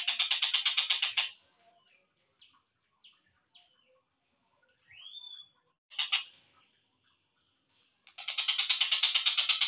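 Collared kingfisher calls, played slowed down: a harsh, rapid rattling series lasting about a second, then scattered short chirps and a single rising note. A brief burst follows about six seconds in, and a long rapid rattling series starts near the end.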